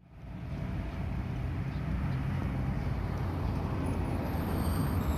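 A heavy vehicle's engine running with a steady low rumble, building up over the first half second and then holding.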